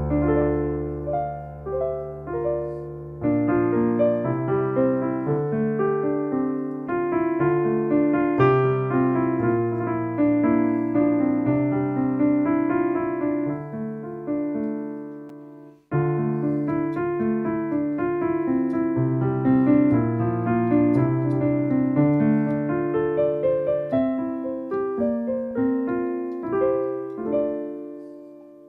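Casio AiX digital keyboard playing a piano tone: a chordal passage with bass notes under a melody. It dies away about halfway through, starts again at once with a new phrase, and is fading out at the end.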